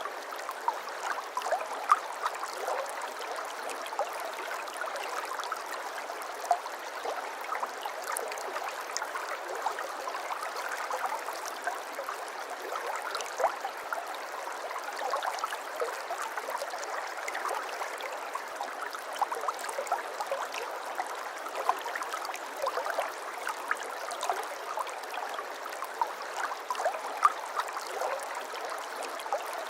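Small stream of water flowing and gurgling over stones, a steady babbling trickle with many small splashes and bubbling, no deep rumble.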